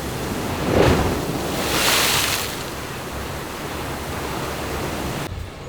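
Seaside wind and surf noise rushing on the microphone. It swells just under a second in and again around two seconds in, then settles to a steady rush.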